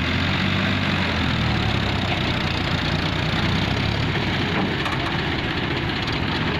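Powertrac tractor's diesel engine running steadily at a low, even speed.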